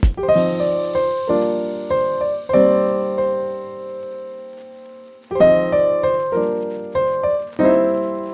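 Background music: piano chords struck in short groups and left to ring out, with a pause in the middle. A high shimmering hiss fades away at the start.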